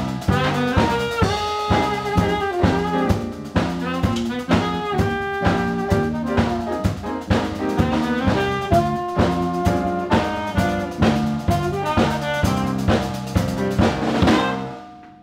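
Live jazz quartet playing: saxophone, piano, bass and drum kit at a steady beat. The music dies away near the end.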